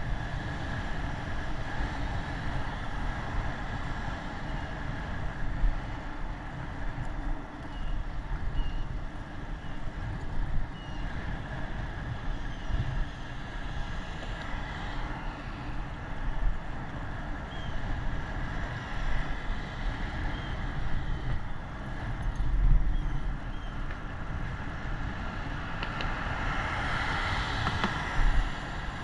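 Wind buffeting the microphone over steady road traffic noise, with a louder vehicle passing near the end.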